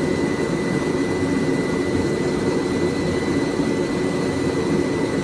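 A forge running with a steady rushing roar, joined by a faint steady high tone.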